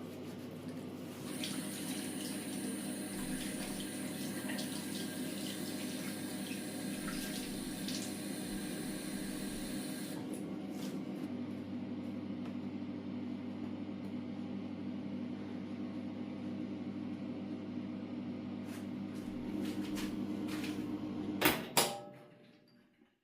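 Water running from a kitchen tap into a sink, over a steady low hum. Two sharp knocks near the end.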